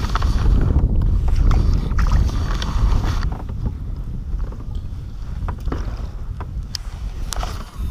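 Wind rumbling on the microphone on a kayak, heaviest in the first few seconds, with scattered light clicks and knocks of handling on the boat.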